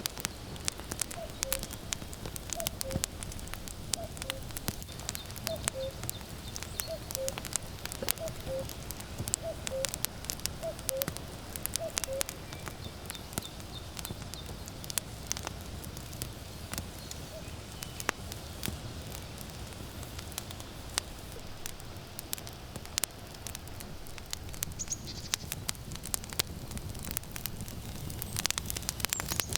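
Firewood burning with steady crackling and popping. Over it a common cuckoo calls its falling two-note "cuck-oo" about nine times, roughly once every second and a half, stopping about twelve seconds in.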